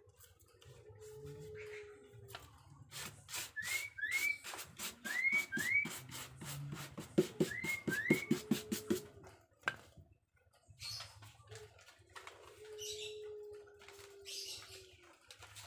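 Bird calls: pairs of short rising chirps and a long, steady, low whistled note that slightly falls and comes back a few times. Under them is a run of crackling and tapping from stiff cement-sack paper being pressed and brushed onto the wooden mask, loudest in the middle.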